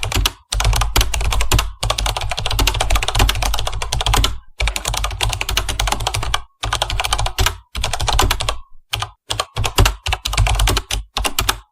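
Rapid typing on a computer keyboard: runs of quick key clicks broken by short pauses.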